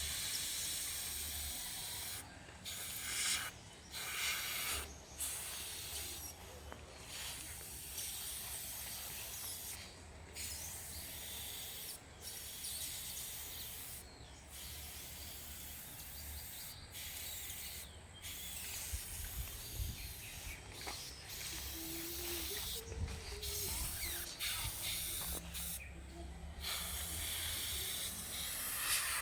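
Airbrush spraying paint with a steady high hiss of air that cuts off briefly about a dozen times and starts again.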